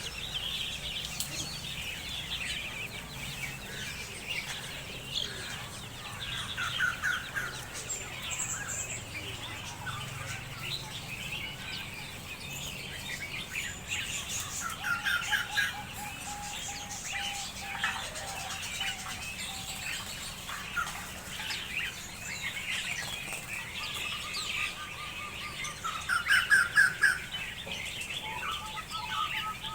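Many small birds chirping and twittering together, with a few quick trilled runs of notes.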